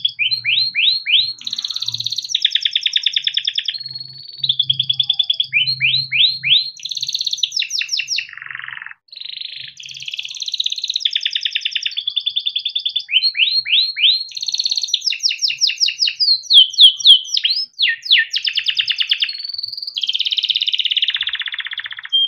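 Domestic yellow canary singing a long, continuous song of fast trills and rolled phrases: each phrase repeats one note rapidly for a second or two before switching to the next. The song stops abruptly at the very end.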